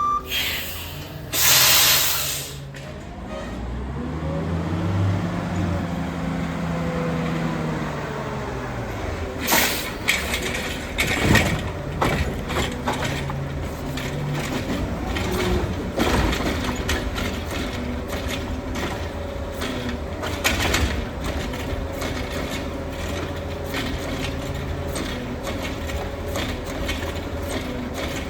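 Heil Rapid Rail garbage truck: a loud air-brake hiss, then the engine revving up and back down, followed by a series of clanks and knocks from the truck's mechanism over the steady engine.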